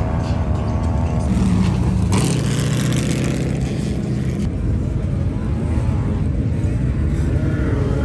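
Off-road vehicle engines running steadily, with one getting louder and passing through a rush of noise from about two to four and a half seconds in.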